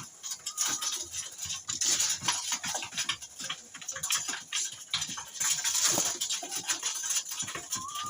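Birds feeding: rapid, irregular pecking taps and scuffling at scattered feed, with a short high note about half a second in and a rising call at the very end.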